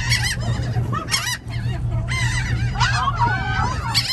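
A flock of gulls calling, many short squawking calls overlapping one another, over a steady low rumble.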